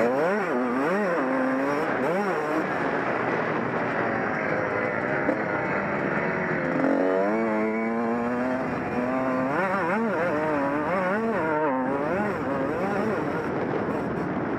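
Honda CR125 two-stroke motocross engine at race pace, its pitch climbing and dropping again and again as the throttle is opened and rolled off. It is heard from the rider's helmet.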